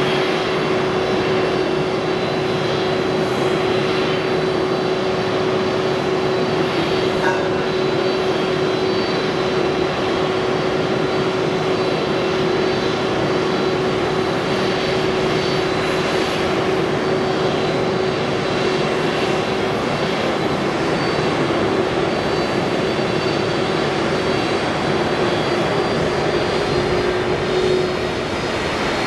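Jet airliner engines running steadily: an even, loud rushing noise with a steady hum beneath it that neither rises nor falls in pitch.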